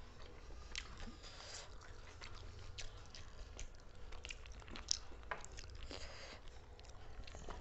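Close-up chewing and biting while eating fast, with irregular small crunches and clicks of the mouth.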